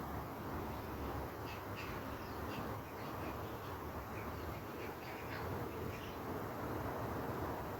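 A bird calling in a quick, irregular run of short, high calls for several seconds, over a steady background hiss of outdoor ambience.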